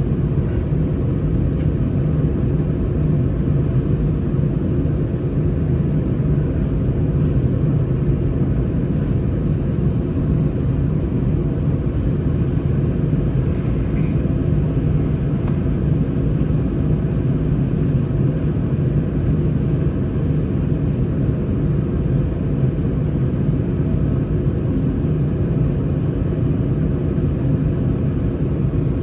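Steady, loud low rumble of an Airbus A319's cabin, with its CFM56 engines and the airflow around the fuselage heard from inside, unchanging throughout.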